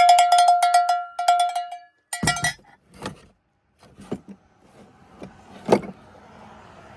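Metal wheel beauty ring clanging and ringing with one clear tone as it comes off, rattling for almost two seconds, then a second short clang about two seconds in and a few light knocks.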